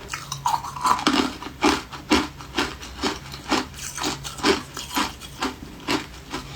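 Refrozen ice being chewed, crunching about twice a second in a steady rhythm.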